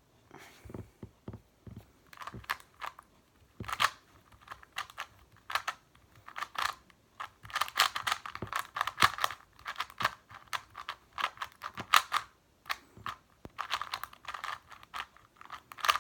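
Non-magnetic YuXin Little Magic 2x2 plastic speed cube being turned fast by hand: an irregular clatter of quick clicking layer turns.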